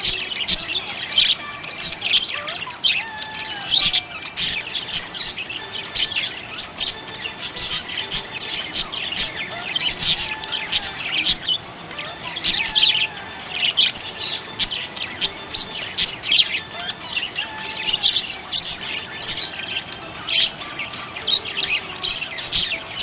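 Budgerigars chirping and chattering: a steady stream of quick, high, overlapping chirps, with lower gliding warbled notes underneath.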